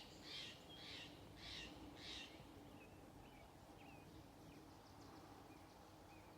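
Four harsh, raspy bird calls about half a second apart in the first two seconds, then several faint thin chirps of small birds. Beneath them runs a faint steady hum of honeybees buzzing in apple blossom.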